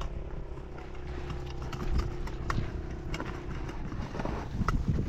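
A motor running steadily with a constant hum, stopping about three and a half seconds in, amid scattered sharp clicks and knocks.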